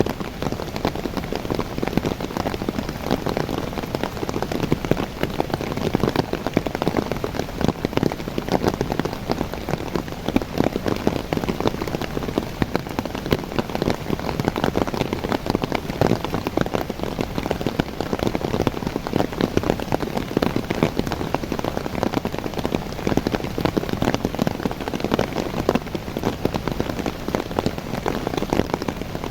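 Steady rain falling on the leaves of young coffee plants, a dense, even mass of small drop hits.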